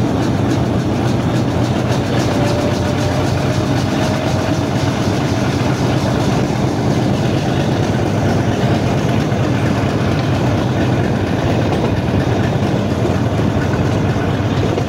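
Passenger train pulling away from a station, heard from the first coach behind the diesel locomotive: a steady, loud rumble of the locomotive engine and the coach running, with a faint rising whine a few seconds in.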